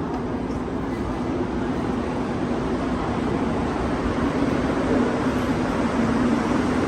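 Rubber-tyred Montreal metro train running in the station: a steady rumble with a low hum, growing gradually louder.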